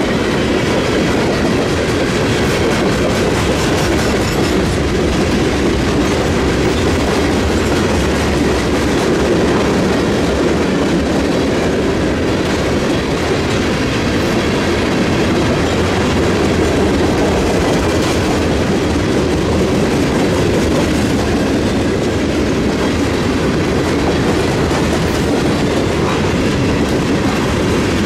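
Freight train cars rolling past close by: steady noise of steel wheels running on the rails as covered hoppers and tank cars go by.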